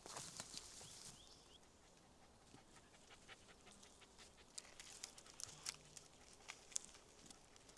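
Near silence with a brief soft rustle about a second in, then scattered faint clicks and ticks.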